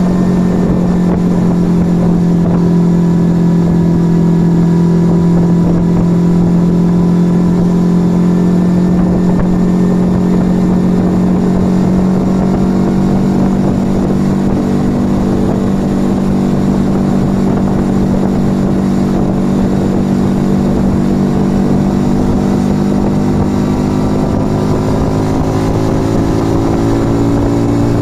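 Yamaha XV125 Virago's small air-cooled V-twin, fitted with a Turbo Kit aftermarket exhaust, running at a steady cruising speed, its pitch creeping slightly higher near the end.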